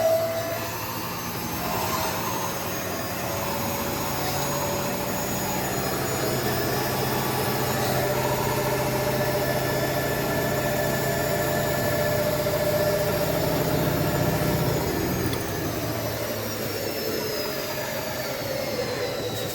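A washing machine's brushed universal motor, hotwired straight to the mains, running flat out with a high whine. Over the last few seconds the whine glides down in pitch.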